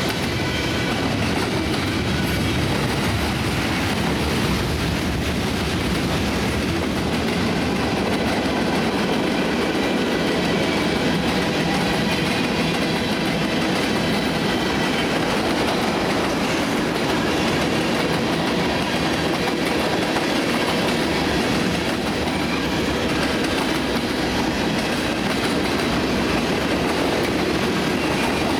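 CSX freight train rolling past, a steady, continuous noise of steel wheels running on the rails.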